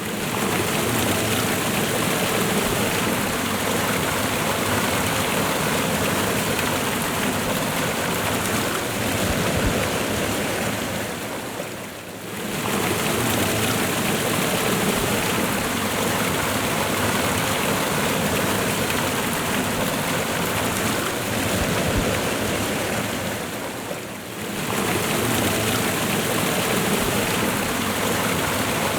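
Steady rushing of running water, a stream or waterfall ambience, dipping briefly twice about twelve seconds apart as if a looped recording restarts.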